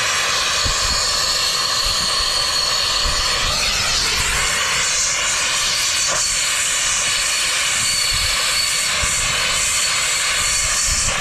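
Turbo torch burning steadily at full flame, a constant loud hissing rush, while heating a soldered copper fitting to loosen it.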